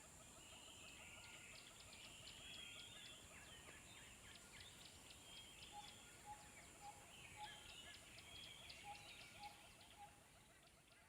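Faint birdsong ambience: many birds chirping and calling together, with a string of short repeated lower notes in the middle, fading out near the end.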